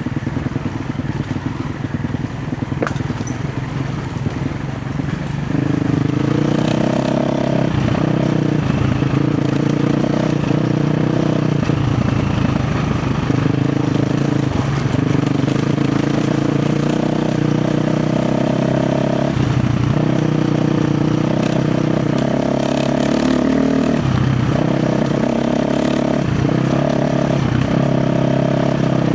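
KTM 350 XC-F dirt bike's single-cylinder four-stroke engine running at low revs for the first few seconds, then about five seconds in the throttle opens and it gets louder, its pitch rising and falling as the throttle is worked, with brief roll-offs every few seconds.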